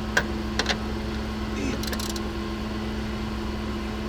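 Steady mechanical hum throughout, with three sharp metallic clicks in the first second and a brief burst of clicks about two seconds in, from wrench work tightening steering tie-rod nuts.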